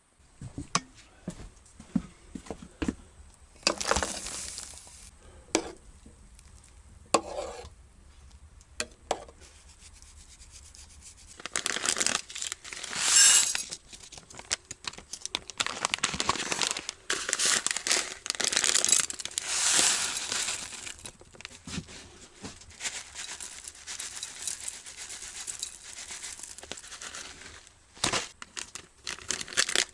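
Crinkling and rustling of something being handled, with scattered clicks: a few separate bursts at first, then busier and louder handling from a little before halfway.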